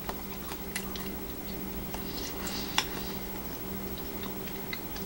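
People chewing mouthfuls of quesadilla, with small wet mouth clicks scattered through and one sharper click near the middle, over a steady low hum.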